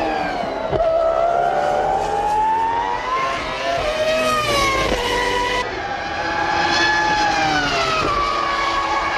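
Formula One cars' 3-litre V10 engines at racing revs, the high-pitched note rising and then falling with acceleration and braking, with an abrupt change to another car's engine about halfway through.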